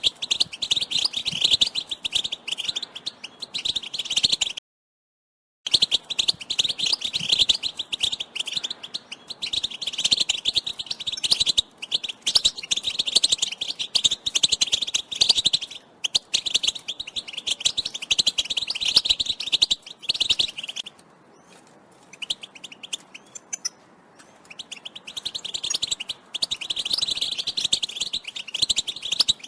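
European goldfinch twittering: fast, dense chattering calls, broken by a second of dead silence about five seconds in and a quieter lull with only faint notes about three quarters of the way through. These are the excited mating and readiness calls played to spur male goldfinches to sing.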